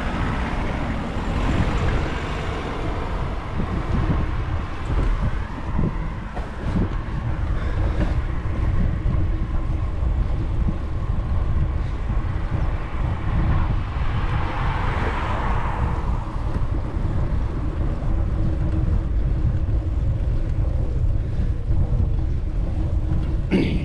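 Wind buffeting the microphone, heavy and continuous, over a faint steady low hum. The noise swells for a couple of seconds about two thirds of the way through.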